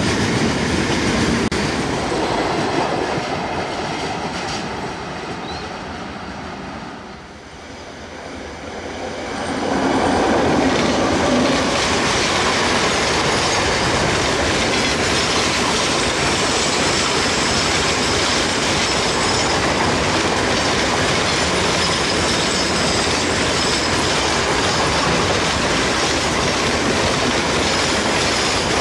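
Long freight train of open-top wagons rolling past on the rails, with a steady rumble of wheels and clickety-clack over the rail joints. The noise fades down about seven seconds in, then comes back loud and steady from about ten seconds on.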